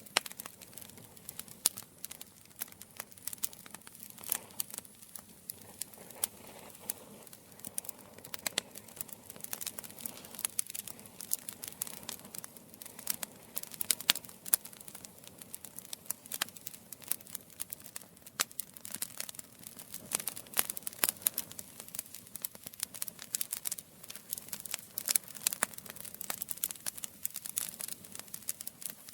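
Campfire crackling: many irregular sharp pops and snaps over a soft low hiss of burning wood.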